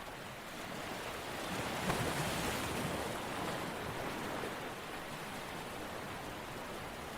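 Rushing water, swelling to a peak about two seconds in and then slowly easing off.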